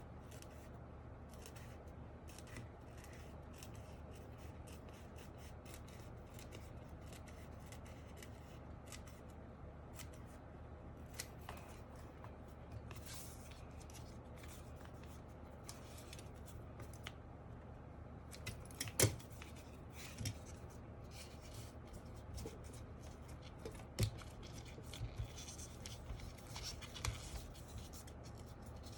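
Scissors snipping in a long run of short cuts, with a few louder clicks in the second half.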